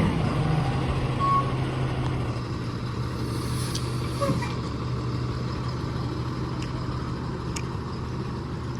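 Ford 7.3 Powerstroke V8 turbo-diesel idling steadily just after a cold start, slightly louder at the start, with a few faint ticks.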